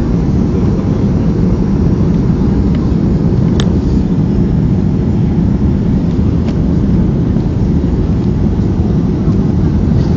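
Steady, loud cabin noise inside a Boeing 737-300 airliner: a deep rumble of its CFM56 jet engines and airflow, with a faint steady hum above it.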